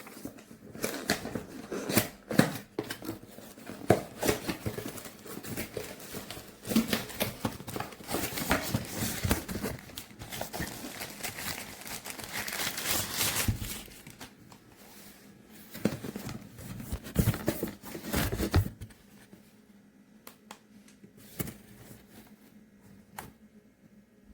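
Handling noise: close rustling with many clicks and knocks, stopping about three-quarters of the way through, after which only a few faint clicks remain. No pump motor is running.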